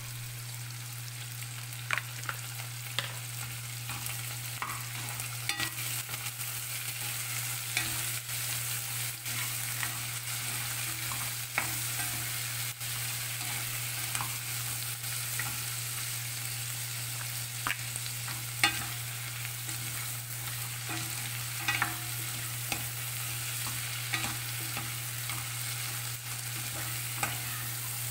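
Onion, tomato, garlic, black beans and pork sizzling in oil in a pot, stirred with a wooden spatula that knocks and scrapes against the pot every second or two, the loudest knock about two-thirds of the way through.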